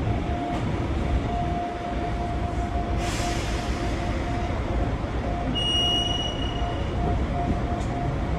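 Gakunan Railway electric train running, heard from inside the passenger car: a steady rumble of wheels and running gear with a faint motor tone. There is a short hiss about three seconds in and a brief high-pitched tone about six seconds in.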